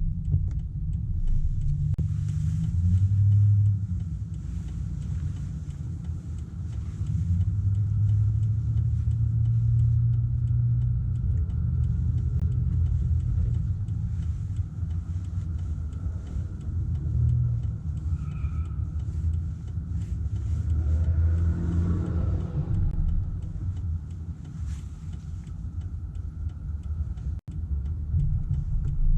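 A car driving along a road: a low rumble of engine and tyres that swells and eases, with a faint steady whine above it. The sound drops out for an instant near the end.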